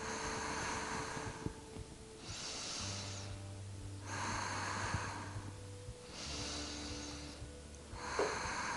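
A person's slow, audible breathing, about five soft breaths in and out over a few seconds, over faint sustained background music.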